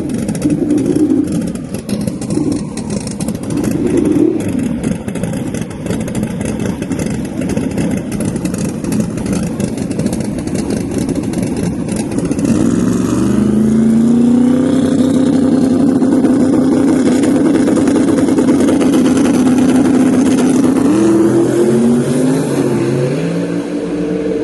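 Drag car engine sound. Uneven, choppy revving for the first half, then an engine climbs in pitch, holds a steady loud note for several seconds, and rises again near the end.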